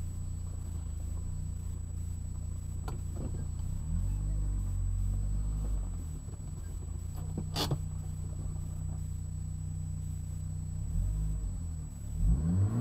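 1999 Saab 9-3 Turbo's turbocharged four-cylinder engine idling steadily, heard from inside the cabin, with a light click about three seconds in and a sharper click about seven and a half seconds in. Near the end the engine is revved briefly, its pitch rising.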